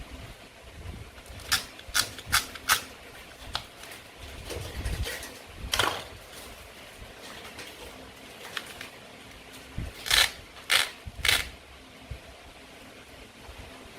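Toy play food being cut apart and handled: sharp plastic clicks and light knocks. There are four quick clicks about a second and a half in, one near the middle, and three more near the end.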